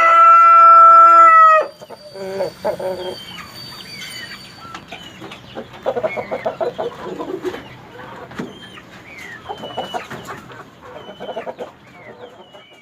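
A rooster crows once, loud and held for about two seconds, then chickens cluck in short bursts on and off, with small birds chirping over them.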